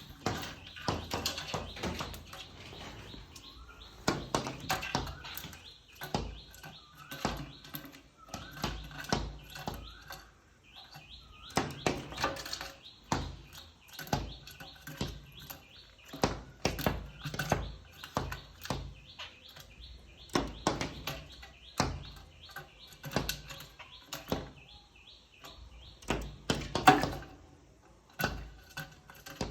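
A bird knocking repeatedly on a hard surface with its beak in uneven runs of sharp taps, one loud knock near the end, between runs of high repeated chirping calls.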